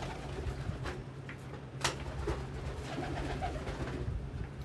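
Domestic pigeons cooing, with a few sharp clicks.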